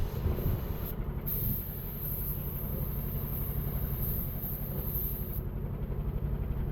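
A large engine running steadily with a low rumble.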